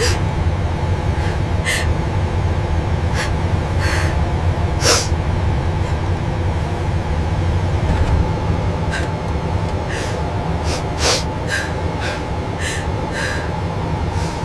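Steady low drone of an airliner in flight, with about a dozen short, sharp breaths or gasps scattered irregularly through it.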